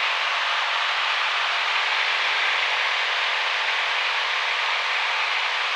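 Cessna 172 cockpit engine and propeller noise, a steady hiss-like drone at full throttle in a climb, heard through the headset intercom.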